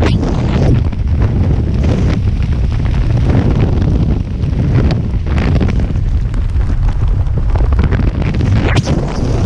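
Strong wind buffeting the microphone: a loud, continuous low rumbling rush with a few brief crackling gusts.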